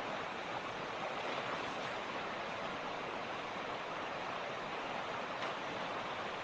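Water of a rushing mountain creek flowing over rocks, a steady even rushing.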